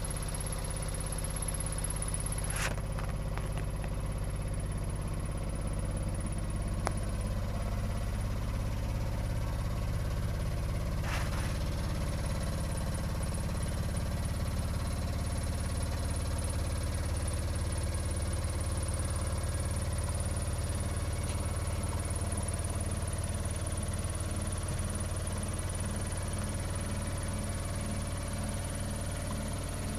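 Washing machine running with a steady low hum and rumble and a thin high whine over it. There are two sharp clicks in the first eleven seconds, and a faint even pulsing in the hum in the second half.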